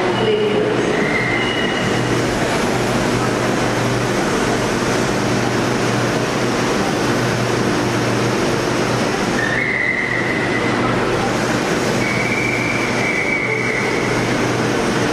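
A train running along the track with a steady rumble, and a few brief high-pitched wheel squeals about a second in and again around ten and twelve seconds in.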